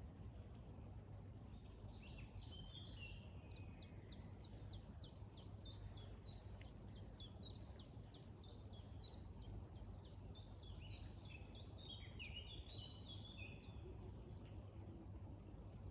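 Songbirds singing: long runs of short, quick notes that each sweep down in pitch, fading out near the end, over a faint steady low rumble.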